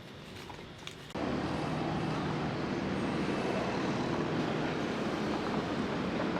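A motor vehicle's engine running steadily, coming in abruptly about a second in.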